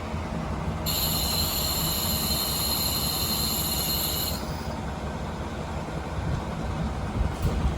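KiHa 40 diesel railcar running along the line, heard from inside the car as a steady low rumble of engine and wheels on rail. From about a second in, a steady high-pitched squeal sounds over it for about three and a half seconds, then stops.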